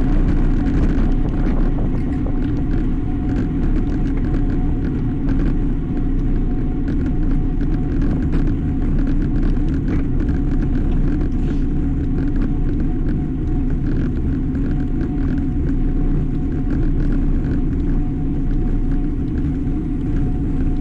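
Steady wind and road rumble on the microphone of a camera riding along on a road bicycle, a continuous low roar with a faint steady hum above it.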